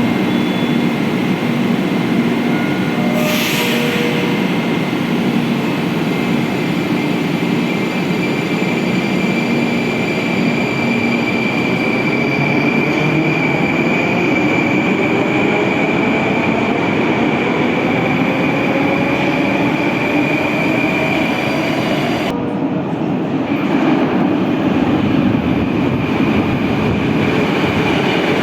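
Moscow Metro train running with steady wheel and rail noise. A motor whine rises in pitch through the middle of the stretch. A brief hiss comes about three seconds in.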